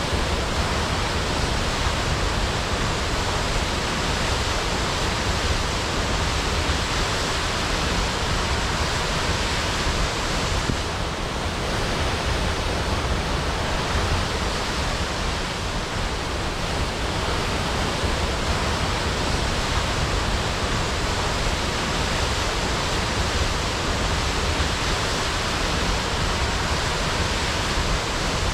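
Crashing waterfall: a steady, unbroken rush of falling water.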